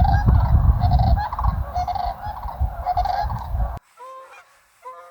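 A flock of geese honking over and over, with a heavy low rumble of wind on the microphone. About four seconds in, the rumble cuts off abruptly and scattered honks carry on, quieter.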